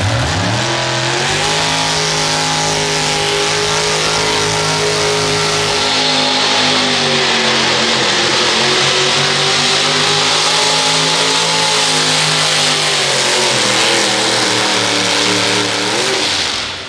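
Pulling tractor's engine revving up hard and held at full throttle through a pull down the track, its pitch sagging a little partway and recovering, then flaring briefly and dropping off near the end as the run finishes.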